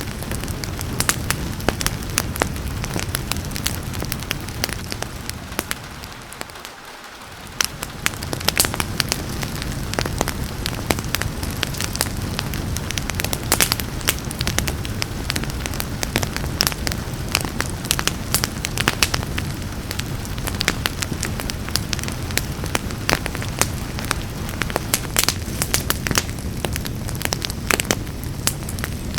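Wood fire crackling with dense, irregular pops over a steady hiss of rain. About six seconds in the whole sound fades down for a second or so, then comes back with a sharp pop.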